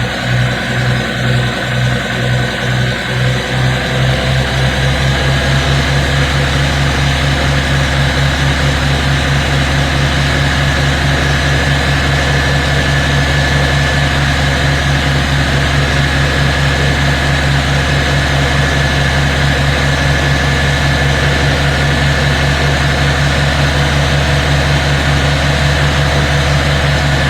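1975 Kenworth LW924's diesel engine running with a regular pulse. About four seconds in it is brought up from idle to a faster, steadier speed, held under a little throttle to build air pressure in the brake system.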